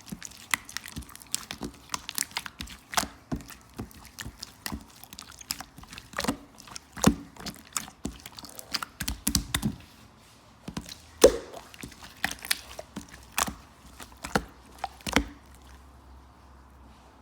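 Slime being squeezed and poked by hand, making irregular wet clicks and pops, a few of them louder.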